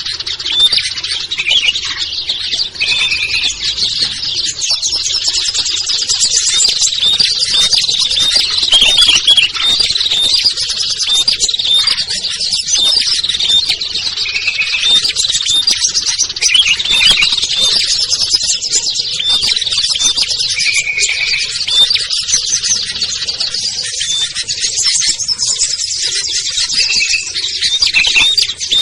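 A busy chorus of many small songbirds chirping and twittering over one another without a break, with a few short buzzy notes standing out now and then.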